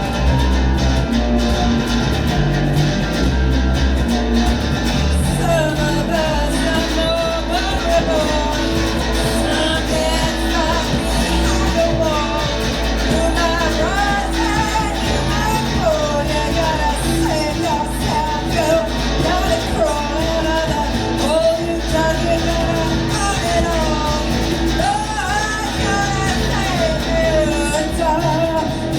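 Live rock band playing, with electric guitar and bass. A singer comes in about five seconds in and sings over the band.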